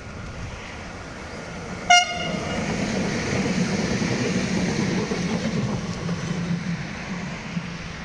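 A passing train's horn (a Makrofon) gives one very short, sharp toot, a greeting to the trainspotter waving at the crossing. The train then goes by with a steady rumble that swells and then eases off.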